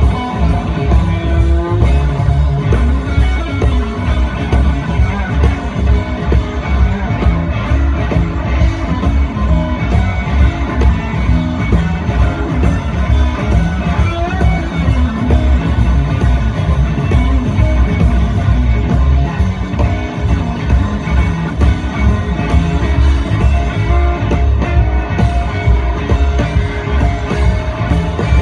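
Live electric blues band playing an instrumental break: an electric guitar lead with bent notes over bass and drums keeping a steady beat.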